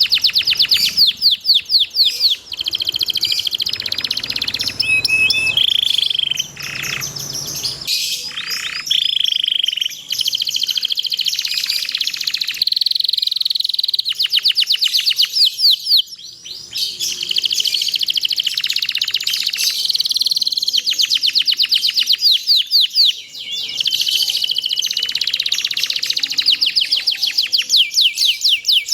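Domestic canary singing: long rolling runs of very fast repeated trill notes, mixed with a few held whistled notes and short pauses.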